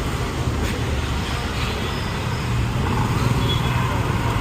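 Steady street traffic: motor vehicles running past with a continuous low engine rumble and road noise.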